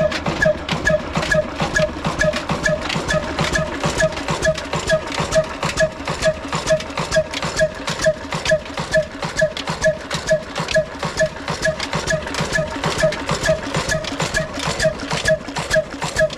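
Old slow-running single-cylinder desi diesel engine running steadily, a regular chugging knock of a few beats a second with a short metallic clink on each beat.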